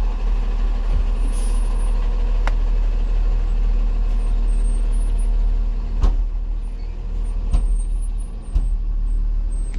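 An idling engine runs steadily with a low rumble, while a car door is slammed about six seconds in and twice more soon after, without latching: the driver's door is broken and won't stay shut.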